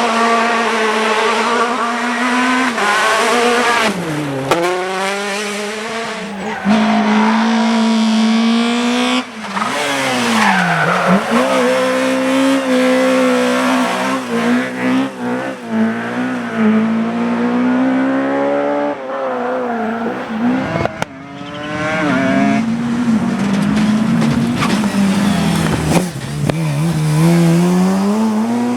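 Rally car engines at full throttle, revving up and dropping back over and over through quick gear changes. About two-thirds of the way through the sound dips briefly with a click, then the revving picks up again.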